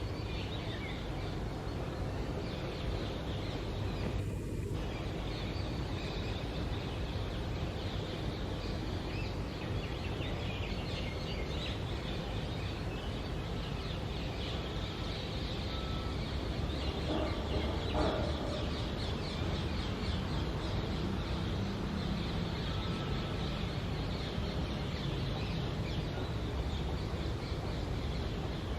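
Rose-ringed parakeet chicks in the nest hole giving a continuous stream of short, rasping begging calls, the sign of hungry young calling for food, over steady low background noise.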